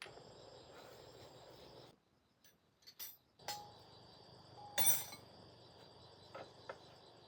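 Insects trilling steadily in the background, broken by a handful of sharp clinks in the middle, the loudest about five seconds in. The background cuts out briefly about two seconds in.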